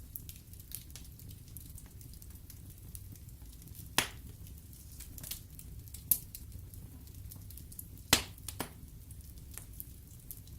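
Wood fire burning in a fireplace: a low steady rumble of flame under continual small crackles from the logs, with a few sharp pops about four, six and eight seconds in.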